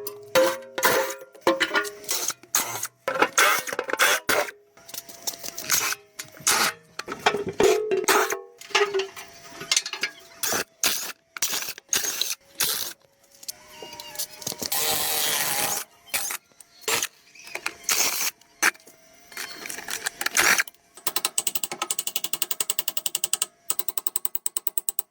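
Hand-tool work on an old diesel tractor: irregular metal clicks and knocks, a hissing rush lasting about a second and a half around the middle, and a fast run of even clicks over the last few seconds.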